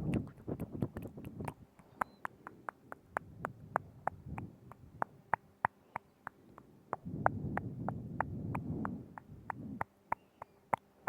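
Close-up mouth sounds: quick wet tongue and lip clicks, about three to four a second, with a low, rough sound under them at the start and again for about two seconds past the middle.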